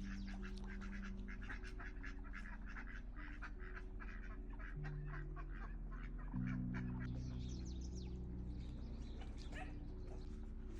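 Ducks quacking, many short calls in quick succession overlapping one another.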